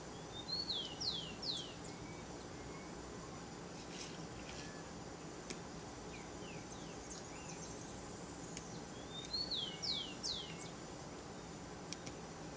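A bird calling: two phrases of three or four quick, high, down-slurred notes about nine seconds apart, with a fainter phrase between them, over a steady outdoor background hum.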